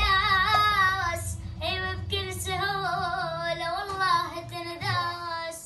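A child singing a long, ornamented melody with wavering, held notes, the voice breaking off near the end.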